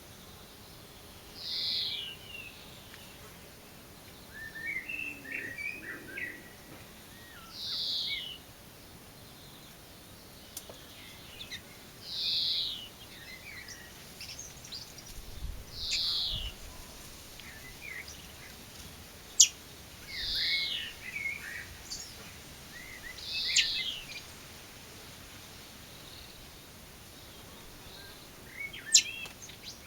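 Songbird calling: a short high note sliding downward, repeated every few seconds, with softer twittering between. Two sharp clicks, one about two-thirds in and one near the end.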